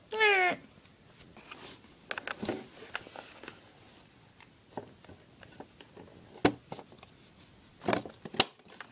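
Small plastic toys being handled and moved on a hard surface: scattered light clicks and taps, with a few sharper knocks near the end. It opens with a brief voice sound falling in pitch.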